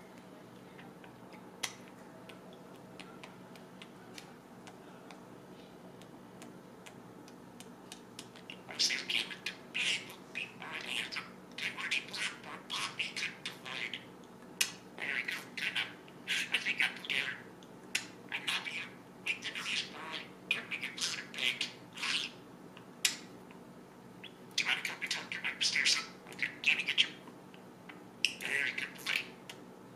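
Pet budgerigar chattering and chirping in quick bursts of short, high calls, starting about a third of the way in after a quiet stretch, over a steady low hum.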